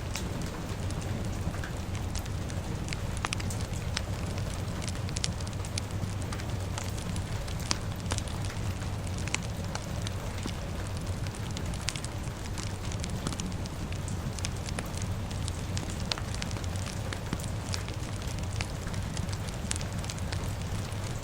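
A fire crackling, with scattered sharp pops over a steady hiss of rain and a low, even rumble.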